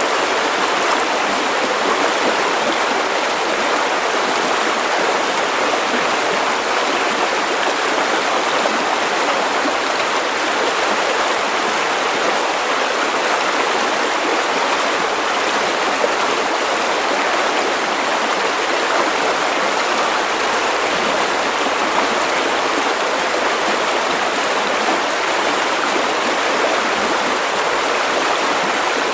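River water running over stones: a steady, continuous rushing and burbling.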